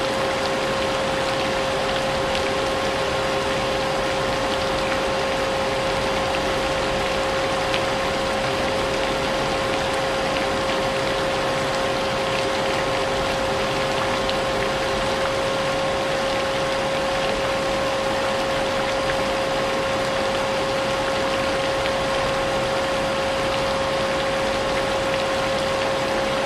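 Vacuum cleaner running steadily, its motor giving a constant whine over a loud rushing noise, mixed with falling rain.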